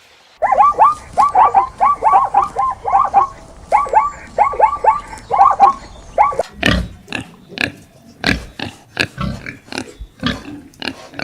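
Pigs calling: for about six seconds, a fast run of short pitched squeals, then deep grunts about two a second.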